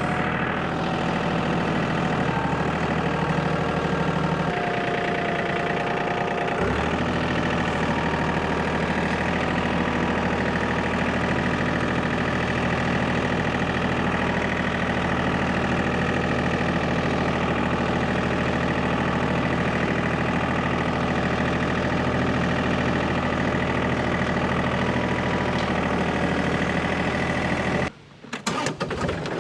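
Tractor engine running steadily, its note shifting a few seconds in. The sound drops out briefly near the end.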